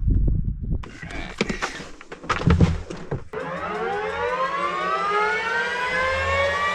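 Helicopter turbine engine starting up: a whine of several tones that rises steadily in pitch as the engine spools up, after a few scattered clicks and knocks in the first three seconds.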